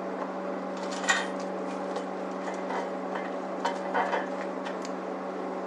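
A steady machine hum in the shop, with a few light metal clinks as parts of the mill are handled, one about a second in and a couple around four seconds in.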